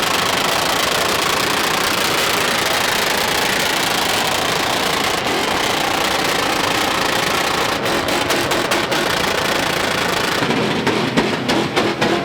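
A loud truck engine running hard and steady, its sound turning rougher and more uneven about ten seconds in.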